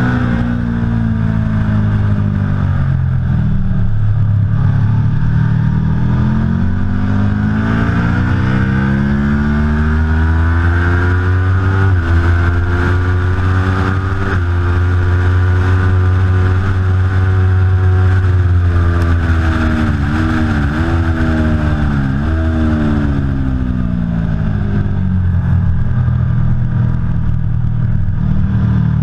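Aprilia Tuono V4 Factory's V4 engine at track pace. The revs fall, then climb through two upshifts and hold high. They drop through three quick downshifts under braking and settle low near the end.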